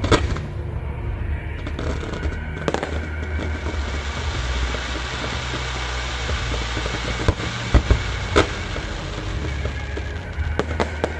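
Fireworks going off: separate sharp bangs, one near the start, one a few seconds in, three in quick succession around eight seconds in and a few more near the end. Music plays underneath.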